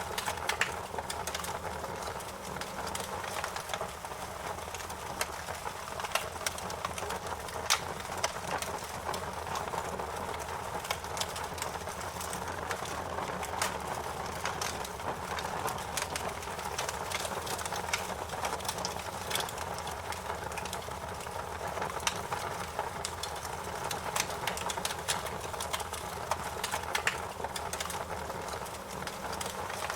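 Campfire burning and crackling: a steady hiss of flames with frequent, irregular sharp pops and snaps.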